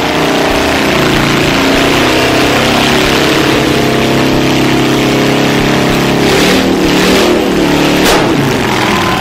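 Motorcycle engine running loud and steady, with the pitch shifting and some revving in the last few seconds.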